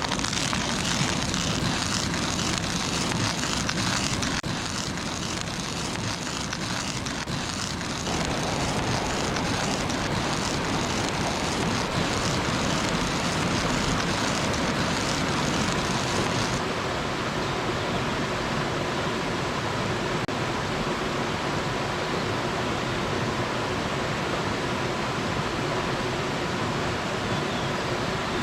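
Steady rushing of a mountain stream's flowing water, shifting abruptly in tone twice.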